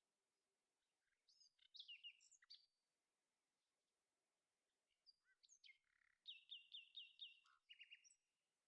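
Bird song: two bouts of high chirps and whistles, the second ending in a quick run of about five falling notes. The level is low and the sound cuts off abruptly at the end.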